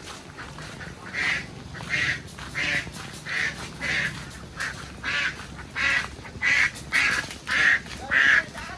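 Domestic duck quacking over and over, about a dozen short calls at a steady pace of roughly one and a half a second, getting louder toward the end.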